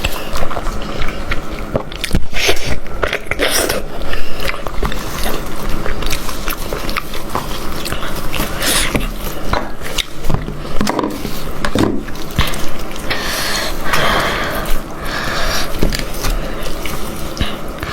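Eating sounds from chewing and biting on a goat head: many short, sharp clicks and wet smacks.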